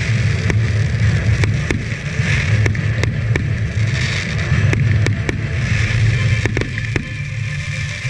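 Aerial fireworks going off: an irregular string of sharp bangs and pops, about one or two a second, over a steady low rumble.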